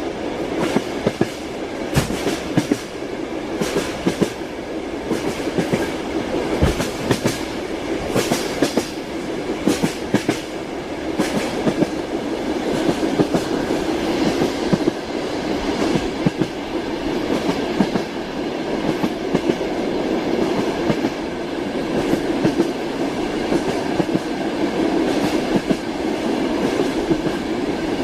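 Train wheels clattering over rail joints as a railway car runs at speed, over a steady rolling rumble. Sharp knocks and clacks come at irregular spacing, thickest in the first half.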